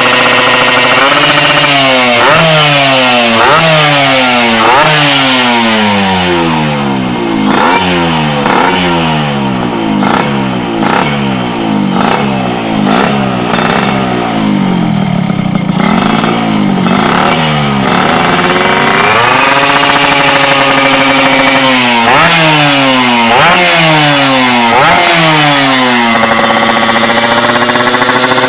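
Yamaha RX-King's two-stroke single-cylinder engine running through a stainless under-belly (kolong) exhaust and revved in repeated quick throttle blips, each one rising and falling in pitch. In the middle it settles to lower revs with many sharp pops. Near the end it holds at a steady, higher idle.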